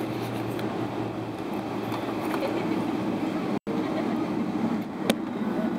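Steady cabin drone inside a Boeing 777-300ER on the ground before takeoff: engine and air-conditioning noise with a low rumble. The sound cuts out for an instant about halfway through, and there is a single sharp click near the end.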